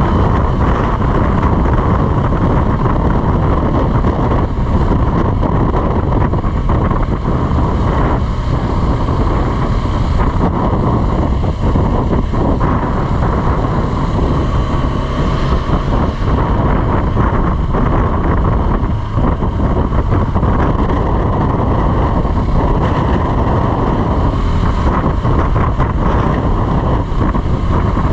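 KTM 390 Adventure's single-cylinder engine running steadily while riding, mixed with heavy wind rush over the microphone.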